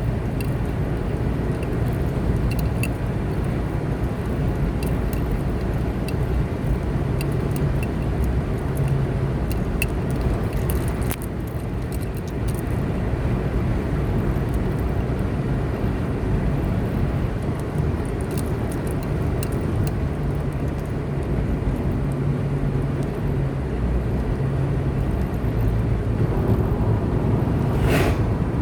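A car driving along a road: steady engine hum and tyre noise, with a brief louder rush near the end.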